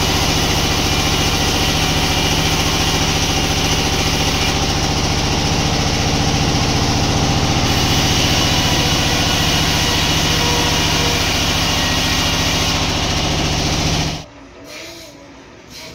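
A heavy sawmill engine running steadily, then stopping abruptly near the end.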